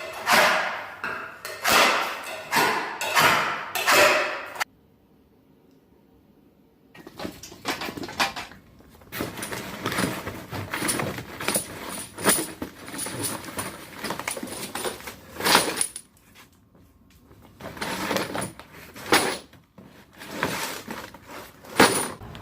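Footsteps crunching on ice-crusted ground, about one step every two-thirds of a second, then a break of near silence about five seconds in, followed by irregular crackling and scraping.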